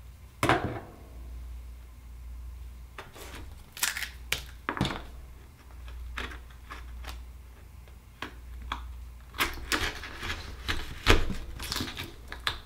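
Scattered sharp clicks, taps and scrapes of hard Akoya oyster shells and metal tools handled on a work surface, as an oyster is opened and searched for its pearl. The clicks grow more frequent in the second half, over a faint steady low hum.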